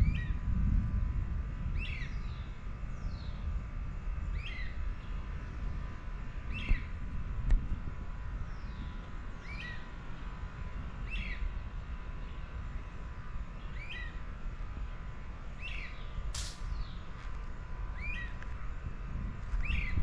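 A bird repeating the same short call over and over, roughly every one and a half to two seconds, over a continuous low rumble.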